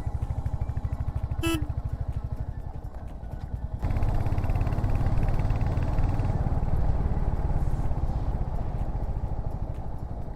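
Royal Enfield Hunter 350's single-cylinder engine running on the move with an even thump of exhaust pulses, then getting louder about four seconds in as the throttle is opened.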